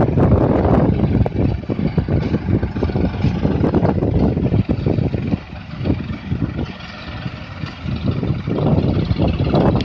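Mahindra Arjun 555 DI tractor's four-cylinder diesel engine running while hauling a loaded trolley, easing off to a quieter stretch around the middle before picking up again.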